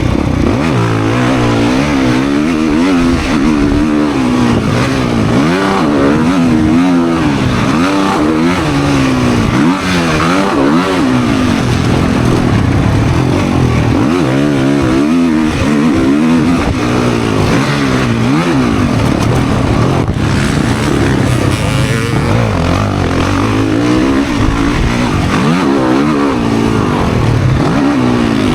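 Motocross dirt bike engine revving hard and easing off over and over as it rides the track, the pitch climbing and dropping every second or two, with wind and rushing noise over it.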